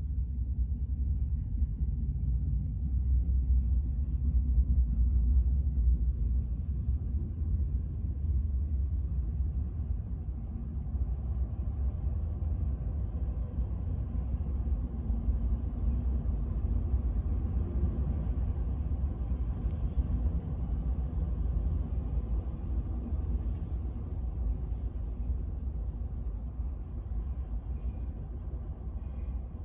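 Freight train rolling past, a steady low rumble of wheels on rail as boxcars and then autorack cars go by; a little louder a few seconds in.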